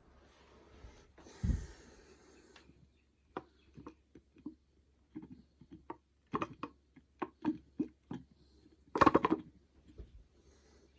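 Faint, irregular clicks and taps at uneven spacing, with a low thump about one and a half seconds in and a louder, brief sound about nine seconds in.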